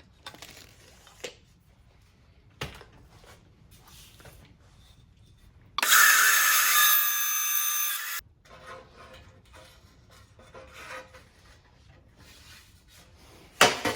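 Power saw cutting through the end of a wooden shovel handle: a steady whining cut of about two seconds, starting abruptly about six seconds in and stopping suddenly. Light handling knocks before and after.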